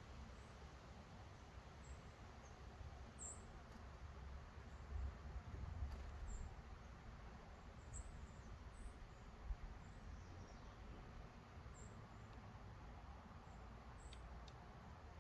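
Faint, very high, short bird chirps scattered at irregular intervals, about one a second, from small songbirds, over a low rumble that swells briefly about five seconds in.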